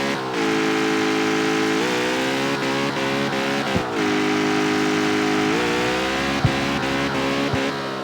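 Jaguar F-Type's supercharged 5.0-litre V8 running on the move, its note holding steady, rising about two seconds in and dropping near four seconds, with a sharp exhaust pop about six and a half seconds in.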